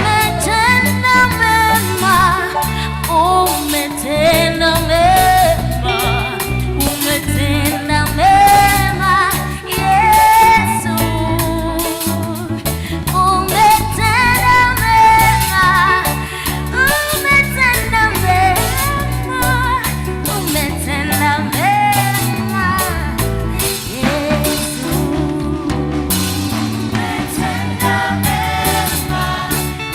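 Christian worship band playing a song live, with a sung melody over the band's accompaniment.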